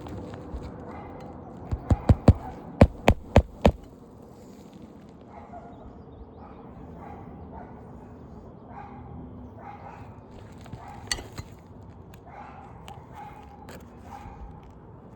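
Hammer driving roofing nails into a new asphalt shingle: about eight sharp strikes in two quick runs of four, a couple of seconds in.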